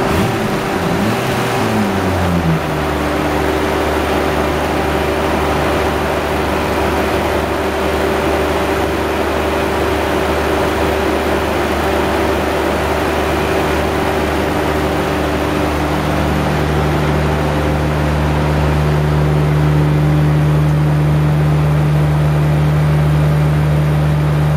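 Turbocharged 2.7-litre inline-six of an R33 Nissan Skyline GT-R, with a Trust T78-29D turbo, running at a steady low speed with a low droning note. It rises and falls briefly in revs in the first couple of seconds.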